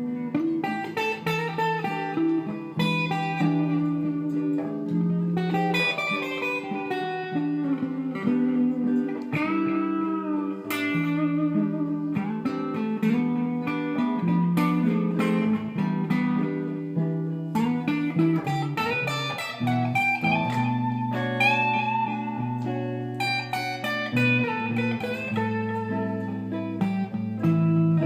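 Instrumental guitar music, electric guitar playing a blues-style melody over sustained chords.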